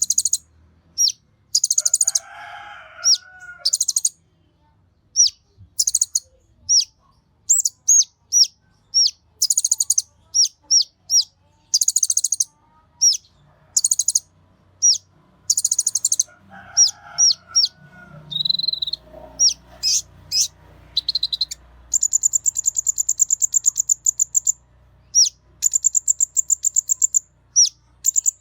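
A konin songbird singing: a long run of sharp, high, down-sweeping chirps broken by fast rattling trills, with a buzzy rapid trill held for a few seconds past the three-quarter mark. Twice, about two seconds in and again near the middle, a lower, harsher call sounds under the chirping.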